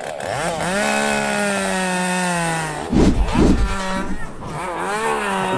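Chainsaw revving: the engine note rises and holds high, with two heavy thumps about three seconds in, then revs up again near the end.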